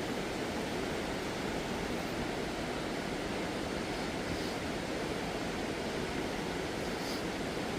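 Steady rushing noise with no distinct events, even in level throughout.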